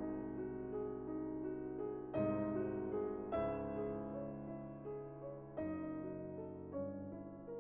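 Slow, soft piano music: sustained chords struck every second or two and left to ring and fade.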